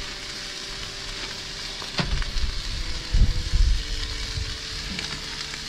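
Ribeye steak sizzling in a hot skillet, a steady frying hiss. About two seconds in there is a click, then a low rumble that peaks about a second later and fades.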